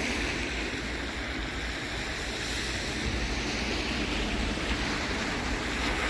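Steady wind rushing over the microphone outdoors: an even, unbroken hiss with a low rumble underneath.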